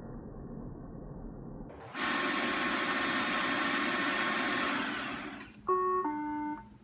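After about two seconds of muffled low noise, a robot vacuum's motor and brushes start up with a loud, steady whir. The whir dies away about five seconds in, followed by a two-note electronic chime that falls in pitch: the robot's error alert that it has stopped and needs moving.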